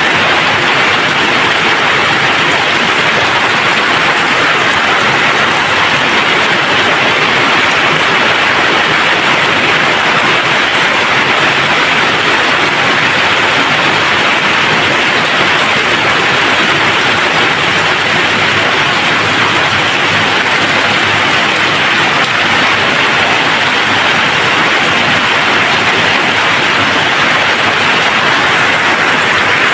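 Steady heavy rain falling, an even unbroken hiss with no thunder or other events.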